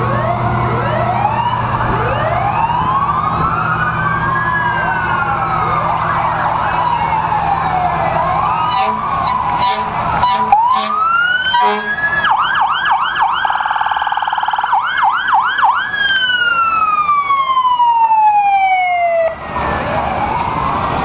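Several emergency-vehicle sirens sounding at once, overlapping wails rising and falling in pitch, with a fast yelp pattern a little past the middle and a long falling wail near the end. Truck engines hum underneath in the first part.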